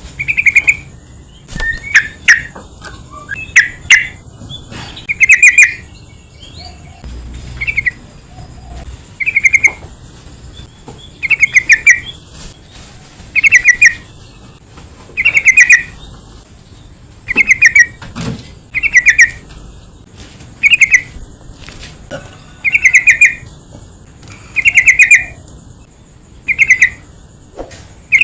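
Yellow-vented bulbul (trucukan) calling: short, bubbling chirping phrases repeated every second and a half to two seconds, with a faint steady high whine behind.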